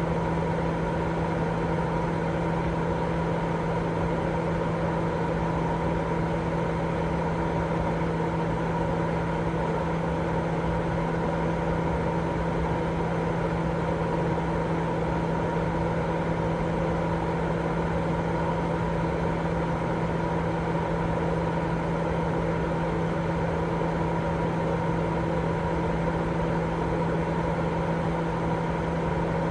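Continuous baby-sleep white noise: a steady, even rush that is strongest in the low and middle range, with a constant low hum running through it and no change at all.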